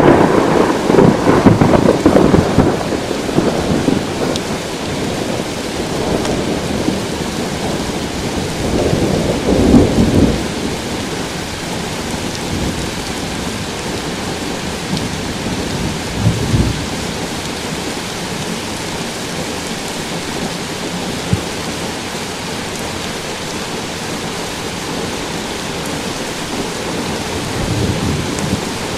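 Thunderstorm: steady rain with rolling thunder. A loud thunderclap at the start rumbles on for a few seconds, another roll of thunder comes about ten seconds in, a shorter one a few seconds after that, and a low rumble builds near the end.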